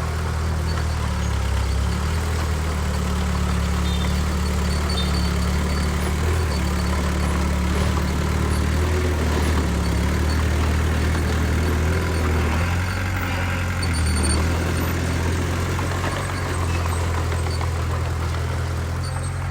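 Heavy diesel engine of earthmoving machinery running steadily at low revs, swelling slightly a couple of times.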